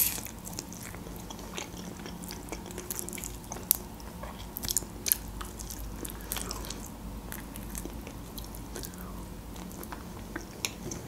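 Close-miked chewing and biting of a chicken wing eaten by hand, with scattered short wet mouth clicks and smacks, a few louder ones in the middle.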